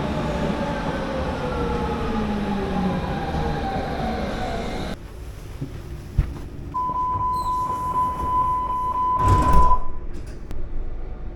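Electric passenger train slowing, its motor whine falling steadily in pitch over the running rumble. Then comes a steady beep of about three seconds, with a short loud rush of noise near its end, like the door warning tone and the doors shutting.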